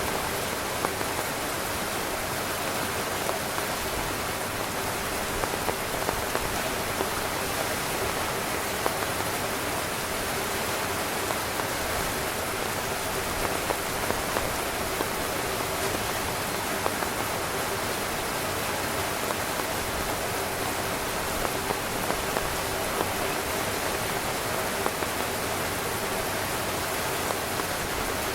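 Steady rain falling on a tent, a dense even hiss of drops with many small individual drop taps scattered through it.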